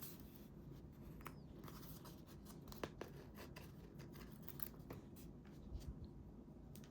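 Scissors cutting paper: a run of small quiet snips and crisp paper noises, with one sharper click about three seconds in.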